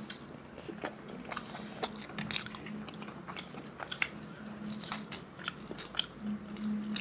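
People eating rice and curry with their hands, close to the microphone: chewing with many short wet smacks and clicks.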